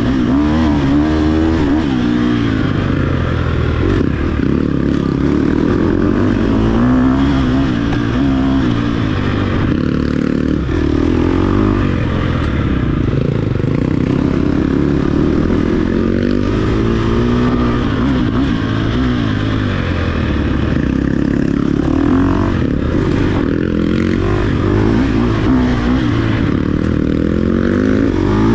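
Off-road dirt bike engine revving up and down over and over as it accelerates and backs off, with the pitch rising and falling every couple of seconds.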